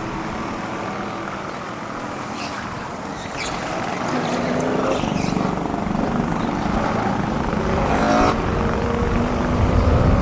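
Heritage touring race cars' engines running at racing speed on the circuit, growing louder as the cars close in, with brief rising engine notes along the way.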